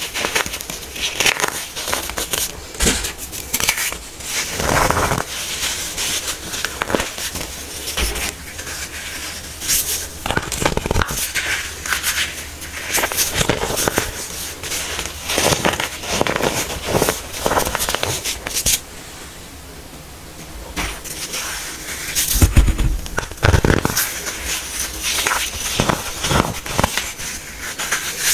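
Hardened baking soda being crushed, a run of irregular crunches and crackles with a short lull about two-thirds of the way through.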